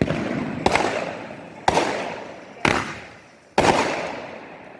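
Consumer fireworks going off: five sharp bangs roughly a second apart, each followed by a crackle that fades away.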